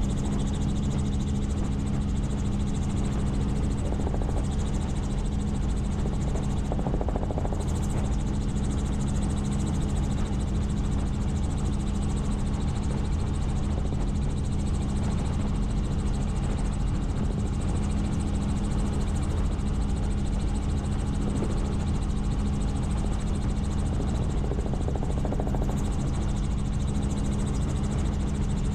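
Helicopter in steady flight: an unchanging drone of rotor and engine with a strong low hum.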